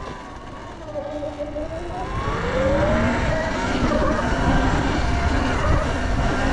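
Sur Ron electric dirt bike's motor whining, its pitch rising from about two seconds in as the bike speeds up, over wind and tyre rumble.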